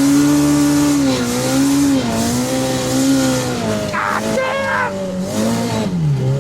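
Turbocharged Polaris RZR Pro R side-by-side's four-cylinder engine running under load while driving through deep snow, its pitch rising and falling gently, with a sharp dip in revs near the end.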